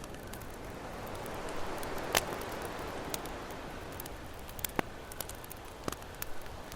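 Campfire crackling, with scattered sharp pops, the loudest about two seconds in, over a steady wash of ocean waves that swells a little around the same time.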